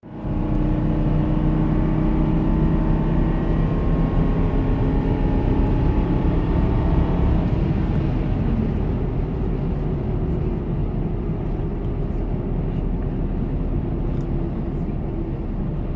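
2006 Ford F-150's engine held at high revs, then dropping back about eight seconds in and running on at a lower, steady speed.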